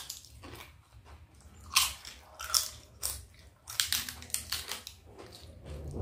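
Close-up crunching and chewing of a mouthful of khichuri with crisp fried papad: a string of sharp crunches between quieter chewing.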